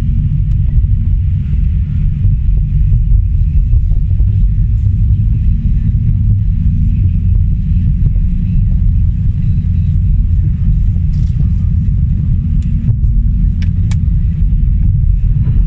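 Car driving on the road: a steady low rumble of road and engine noise, with a few faint ticks near the end.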